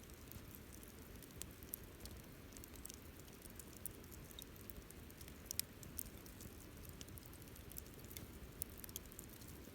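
Wood campfire crackling: scattered sharp snaps and pops, the loudest about five and a half seconds in, over a low steady rumble.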